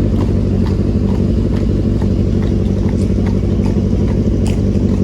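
A vehicle engine running steadily, a constant low hum with a few faint ticks over it.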